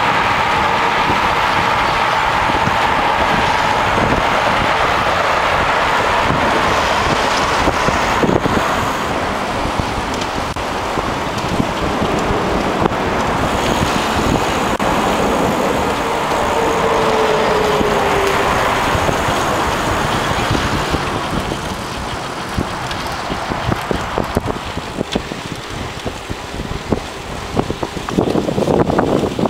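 Steady rushing noise of riding a bicycle at speed: wind over the microphone and tyres on pavement, with a short falling tone about two-thirds of the way through.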